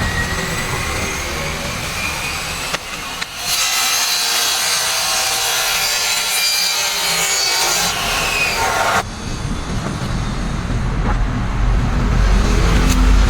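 A saw cutting steadily from about three seconds in, stopping abruptly around nine seconds. Low traffic rumble follows.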